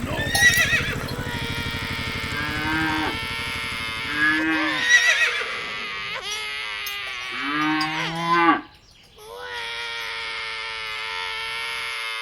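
Cow mooing several times, each call a rising-then-falling moo about a second long, over a steady humming tone.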